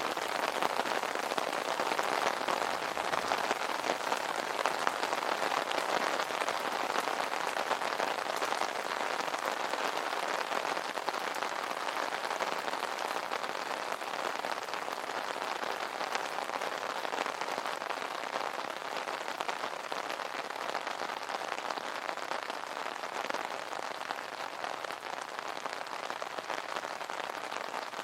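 Steady rain falling on an umbrella, a dense stream of small drop impacts, easing slightly in level toward the end.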